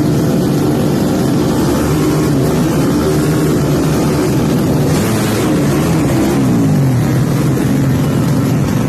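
Drag-racing motorcycle engine revving loudly, its pitch rising and falling again and again.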